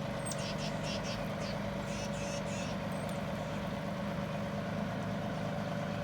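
Tractor engine idling steadily. A run of short high chirps sounds over it in the first half.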